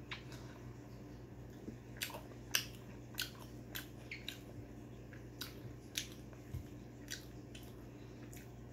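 Close-up chewing of a mouthful of fried pork and rice, with short mouth smacks about every half second from about two seconds in.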